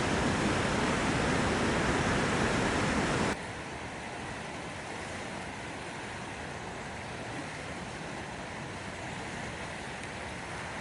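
Steady rush of a waterfall swollen by heavy rain. About three seconds in it cuts suddenly to a quieter, thinner rush of water.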